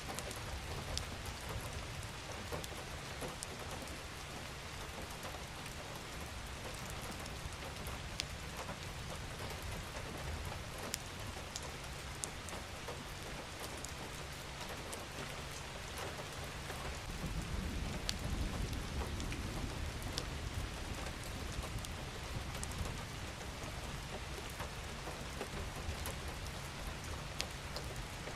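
Steady rain falling, an even hiss with scattered sharp drop ticks. About two-thirds of the way through, a low rumble swells for a few seconds and then fades back.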